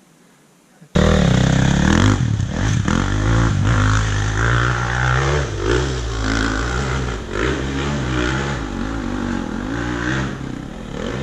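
Dirt bike engine running hard while riding, its revs rising and falling over and over, with some clatter along the way. It starts abruptly about a second in.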